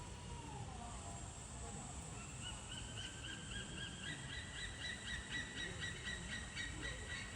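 A bird calling: a rapid chattering run of short high notes, about five a second, starting about two seconds in and carrying on without a break.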